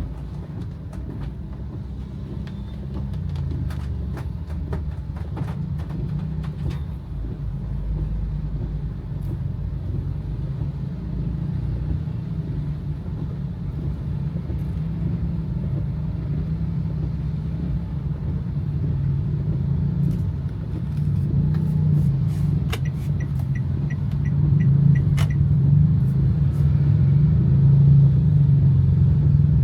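Car driving, a steady low engine and road rumble that grows louder over the last several seconds. Scattered light clicks sound in the first seven seconds, and a short run of quick ticks comes about 23 seconds in.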